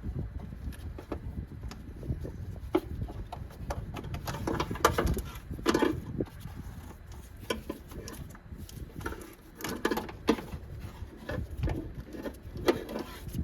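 Hand work in an engine bay: pliers and fingers working plastic clips and wiring, giving irregular clicks, taps and scrapes, with a few louder clusters of knocks.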